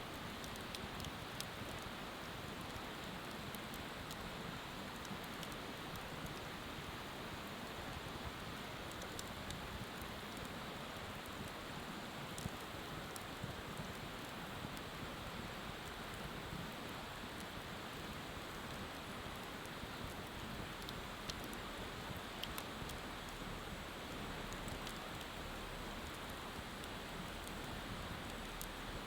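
Wood bonfire burning with scattered sharp crackles and pops, over a river's steady rushing hiss.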